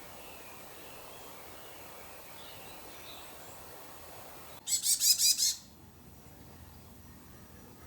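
A bird gives a loud, rapid chattering call of about seven sharp notes in a second, about halfway through. Fainter bird chirps sound before it.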